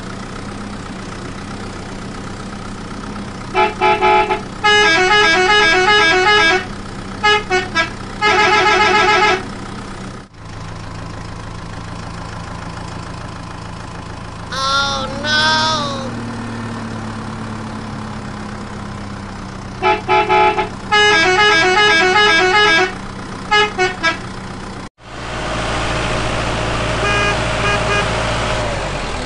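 Vehicle engine sound effect running steadily, with two spells of a horn honking in quick repeated beeps. A short sliding pitched sound comes about halfway. After a sudden break near the end, a louder engine sound takes over.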